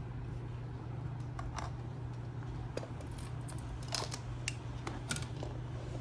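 Scattered light clicks and small metallic clinks of hard objects being handled, over a steady low hum.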